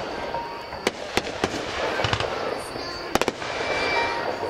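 Fireworks display: several sharp bangs of bursting shells, a few around a second in, one near two seconds and a quick pair just after three seconds, over a continuous crackling hiss.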